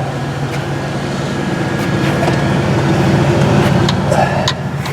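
John Deere 6068 six-cylinder diesel engine running steadily while warming up after a thermostat replacement, with a few light clicks and knocks over it.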